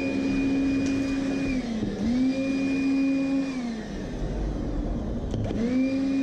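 Makita DCL180 18V cordless vacuum cleaner motor being switched on and off: it runs with a steady whine, winds down about a second and a half in, starts straight up again, winds down again midway, and spins back up near the end after a click.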